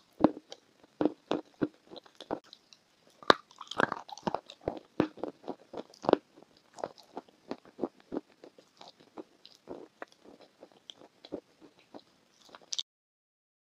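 Close-up biting and chewing of a crunchy white food, heard as a string of sharp, irregular crunches with smaller crackling chews between them. The sound cuts off abruptly near the end.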